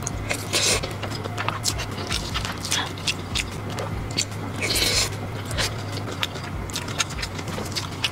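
Close-miked eating: wet mouth clicks and chewing of a mouthful of rice with soft braised pork knuckle, with two brief hissing sounds, about half a second in and near five seconds. A low steady hum runs underneath.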